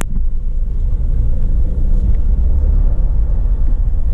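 A brief click at the start, then the steady low rumble of a car driving along, with road and engine noise.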